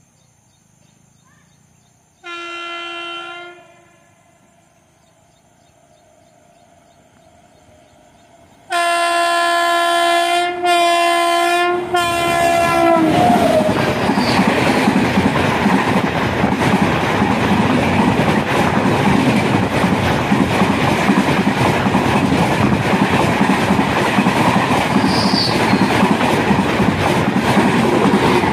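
WAP-7 electric locomotive's horn sounding one short blast, then a long blast broken twice, its pitch dropping as the locomotive passes. It is followed by the loud rush and clickety-clack of the express's coaches speeding past close by.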